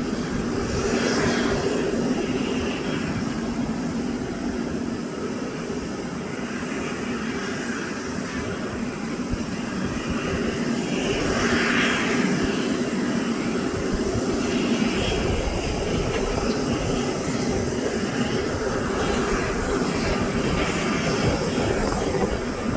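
Jet engines of an Airbus A320neo in flight during a go-around, a steady drone with a low hum that swells a little about halfway through.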